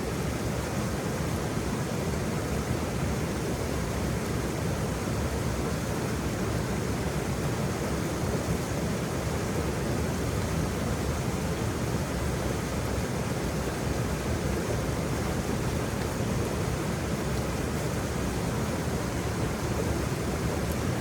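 Waterfall: falling water rushing steadily, a dense, even roar with most of its weight in the low end and nothing rising or breaking through.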